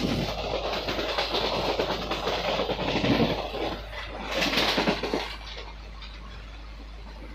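Running noise of a moving passenger train heard from an open coach doorway: wheels on the rails and the coach rattling. About five seconds in it drops to a quieter, steadier rumble.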